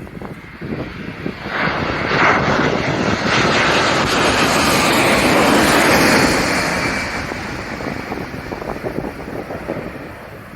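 Airliner passing low overhead on its landing approach. Its engine noise swells over about two seconds, stays loud for several seconds, then fades away.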